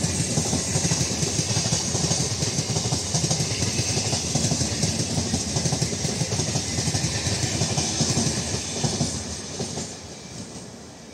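Electric multiple unit (EMU) local train passing at speed: rapid clatter of its coach wheels on the rails over a steady rushing noise. It dies away as the last coach goes by, about nine to ten seconds in.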